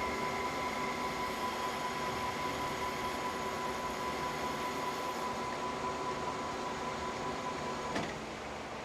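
Metal lathe running, boring a hole out to size, with a steady whine over machine noise; the whine stops with a click about eight seconds in.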